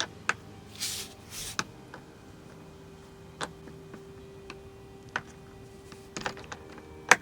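Scattered clicks and knocks of a skate tool and an upturned longboard being handled, with a short rustle about a second in and the sharpest knock near the end.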